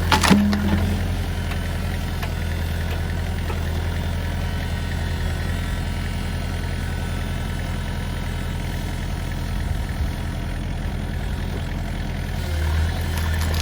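JCB excavator's diesel engine running at a steady speed, with a sharp clank right at the start and a brief swell in the engine sound near the end.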